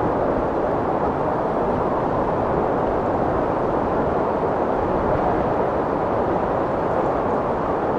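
Strong wind blowing steadily: a dense, even rush of noise, deep and without gusts or breaks.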